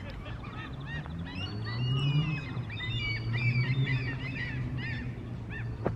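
Small birds chirping, many short quick calls overlapping, over a low steady drone that rises in pitch briefly about two seconds in.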